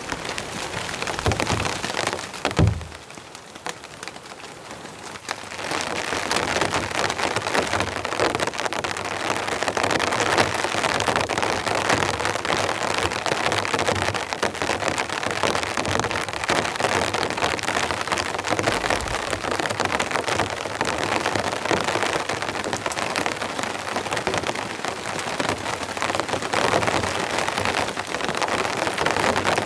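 Steady rain falling, a dense even patter. The first few seconds are quieter, with two dull knocks; about five seconds in, the rain comes in full and holds steady.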